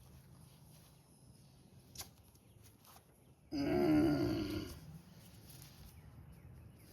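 A man's drawn-out groan lasting about a second, starting halfway through, after a single sharp click about two seconds in.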